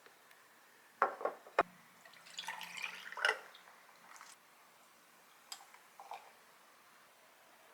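Light clinks and clatter of dishes and kitchen utensils being handled: a few sharp clicks about a second in, then a short rattling clatter, then a couple of faint ticks.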